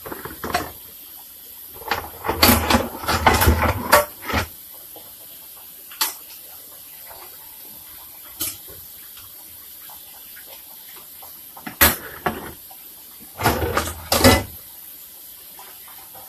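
Dishes being washed in a kitchen sink: water running from the tap while plates and utensils clatter and knock in several short bunches, the busiest about two to four seconds in and again near the end.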